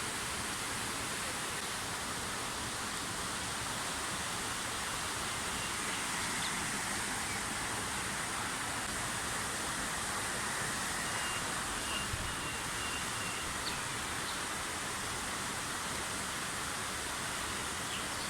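Steady rushing of a river flowing through the valley. A few faint short high chirps occur around the middle.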